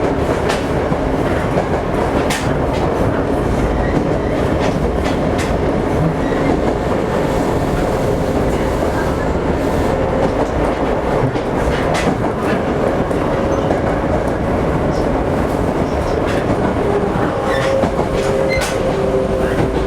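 Toei 5300 series commuter train heard from inside the car while running, a steady rumble with scattered rail-joint clicks. From about three-quarters of the way in, a steady whine of two tones comes in over the rumble.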